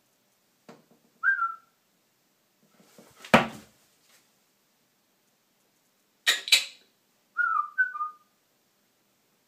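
A small bird trapped in a ceiling ventilation valve giving short falling chirps, once about a second in and twice near the end. Between them it thumps and knocks against the vent: one heavy thump about three seconds in, the loudest sound, and two sharp knocks about six seconds in.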